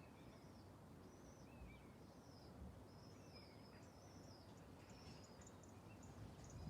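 Faint chirps and short whistled calls of small songbirds, many brief notes with some falling slurs, over a quiet outdoor background hiss.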